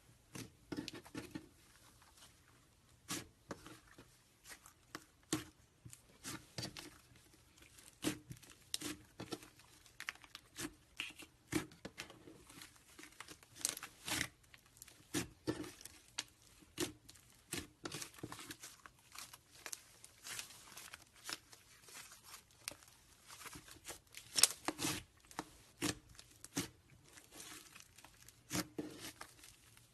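Slime worked by hand, squeezed and stretched, giving irregular sticky pops, clicks and crackles several times a second.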